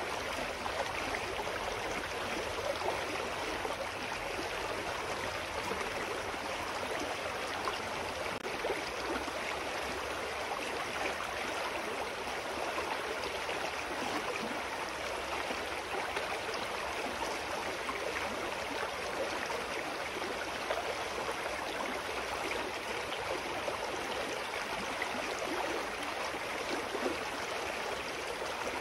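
Clear mountain stream flowing over rocks, a steady rush of water with fine gurgling and splashing.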